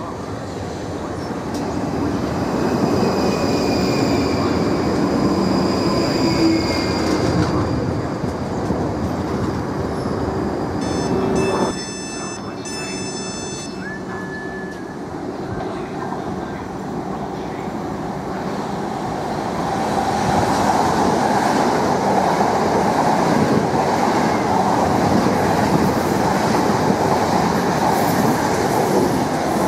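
Electric multiple-unit trains passing through a station: a South West Trains Class 458/5 Juniper runs by first, then after a sudden cut near the middle another unit passes close, with steady wheel-on-rail noise. A brief high-pitched squeal sounds around the cut.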